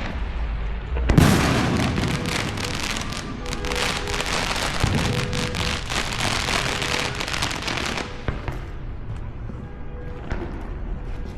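Fireworks finale: a loud boom about a second in, then dense, rapid crackling and popping that thins out after about eight seconds, with one more pop near the end.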